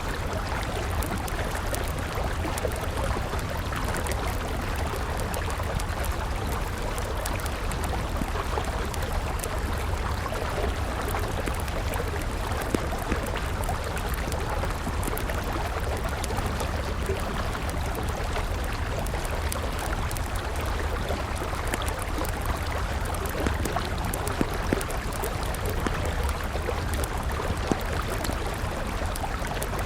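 Wood campfire crackling and popping in frequent small snaps over the steady rush of a flowing river.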